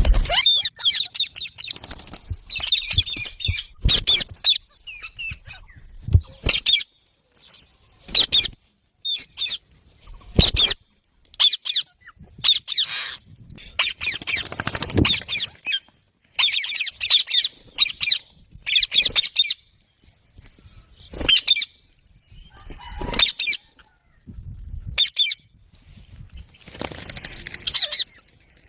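Indian ringneck parrots giving short, high-pitched chirps and squawks in irregular bursts, with brief quiet gaps between them.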